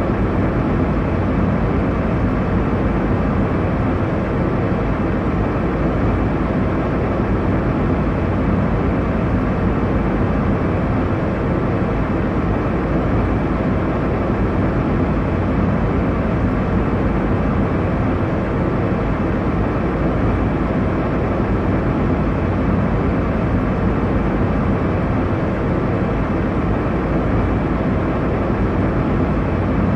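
Steady airliner cabin noise in flight: a constant low rush of engine and airflow noise, heaviest in the low range, with no changes.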